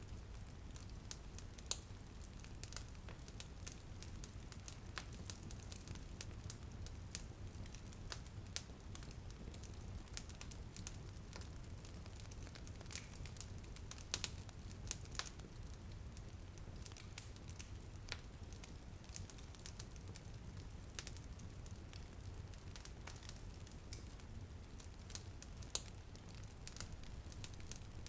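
Wood fire crackling in a fireplace: frequent irregular sharp pops and snaps over a steady low rumble, with a few louder pops.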